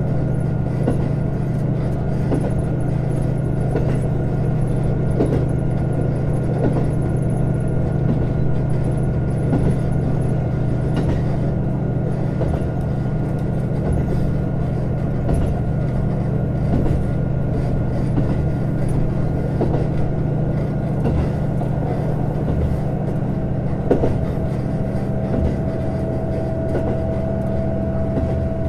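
JR Hokkaido KiHa 150 diesel railcar under way: a steady diesel engine drone with wheels clicking over the rails. A higher whine comes in near the end.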